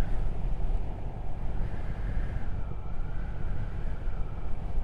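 Triumph Speed Twin 1200 parallel-twin motorcycle engine running steadily under way, with a low rumble and road and wind noise.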